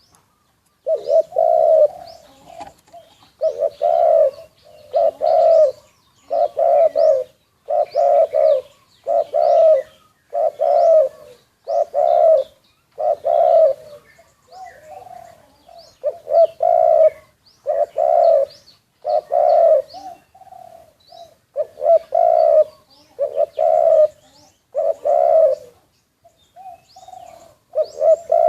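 Captive spotted doves cooing over and over, a loud coo phrase about every one to two seconds, with faint small-bird chirps above.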